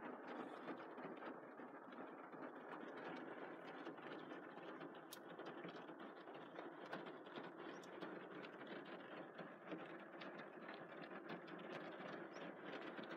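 Heavy rain pattering on a vehicle's roof and windshield, heard from inside the cab: a steady, dense hiss of drops with many small individual ticks.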